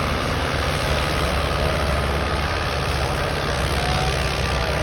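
Heavy tractor engine idling steadily with a low, even rumble.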